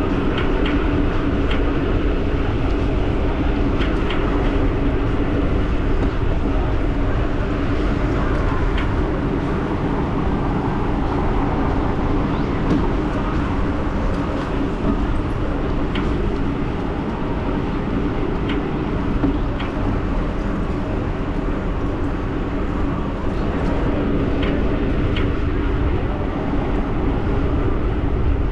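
Riding noise from a Giant e-bike in motion: steady wind rumble on the microphone with tyre and drivetrain noise and a steady hum. A few faint, irregular clicks come through now and then.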